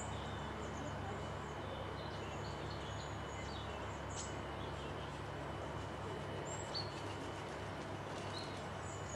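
Wild birds chirping and singing in short, high notes scattered throughout, over a steady low hum and an even background hiss.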